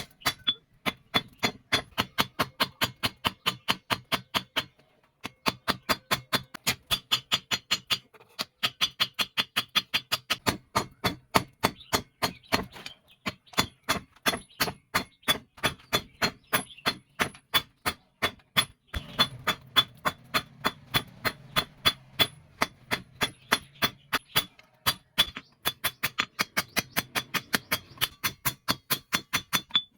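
Forging hammer striking leaf-spring steel on an anvil: steady ringing blows about three a second, in runs broken by brief pauses.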